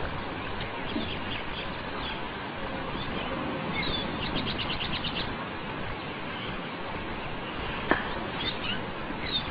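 Small birds chirping, with a quick trill of about eight notes about four seconds in, over a steady rushing background; one sharp click near the end.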